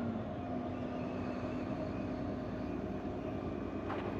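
Steady engine drone and road noise inside a moving semi-truck's cab, with a faint low hum and no sudden sounds.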